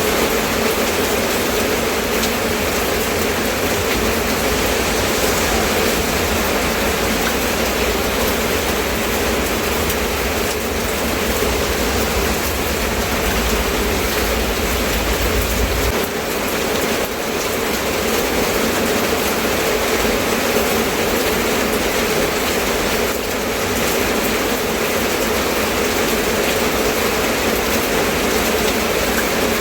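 Steady rain falling, an even, unbroken wash of noise, with a low rumble underneath that drops away about halfway through.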